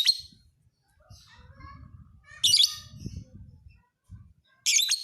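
Lovebird calling: three short, loud, shrill chirping bursts about two seconds apart, with softer chattering between them.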